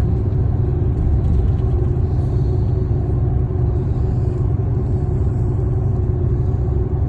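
Shinkansen bullet train running at speed, heard from inside the passenger cabin: a steady low rumble with a faint constant hum.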